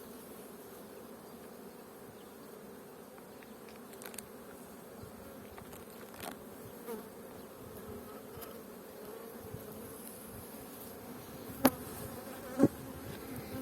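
Honeybees buzzing steadily as a colony's hum, with two sharp knocks close together near the end.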